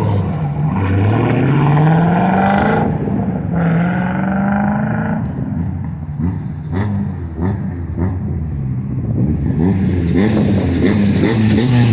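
Car engine revved hard at a rev battle: two long climbs in pitch in the first half, a few sharp pops around the middle, then more revving near the end that rises and falls away.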